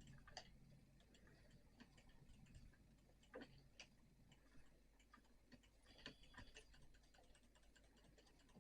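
Near silence, with faint, irregular ticks and clicks; the most distinct come a few seconds in and again around six seconds in.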